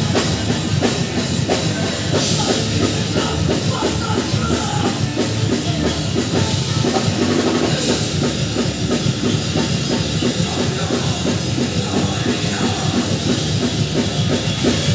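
A rock band playing loud, heavy music live, driven by fast, steady drumming on a drum kit.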